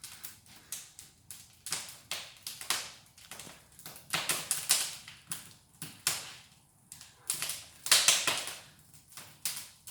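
Pine logs burning in a large open brick fireplace, crackling with irregular sharp pops; the loudest burst of pops comes about eight seconds in.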